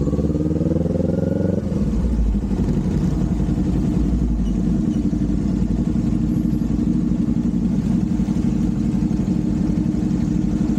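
Kawasaki Z400's parallel-twin engine under way. Its pitch rises for about a second and a half as it revs up, drops suddenly, then holds at a steady cruising pitch.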